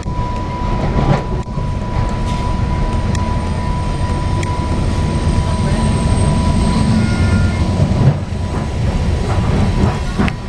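Moving train rumbling along the rails, heard from on board, with a steady high-pitched tone throughout and a few sharp clicks from the track.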